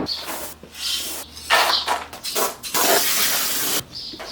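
Rustling and scraping from things being handled, with a steady hiss lasting about a second near the three-second mark.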